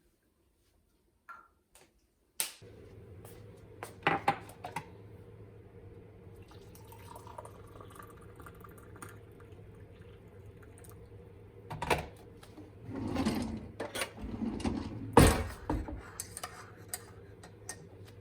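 Kitchen sounds: dishes and cutlery clinking with some liquid, over a steady low hum that comes on after a click about two and a half seconds in. The loudest clatters come about four seconds in and again in the last third.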